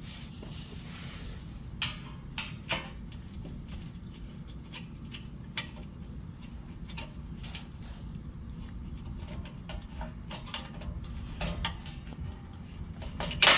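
Irregular clicks and light metallic taps of hand tools and 12 mm bolts being worked while the bolts are run in by hand, over a steady low hum. There is a sharper click cluster near the end.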